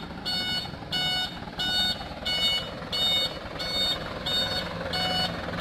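Truck's reversing alarm beeping steadily, about three beeps every two seconds, over the low running of the truck's engine.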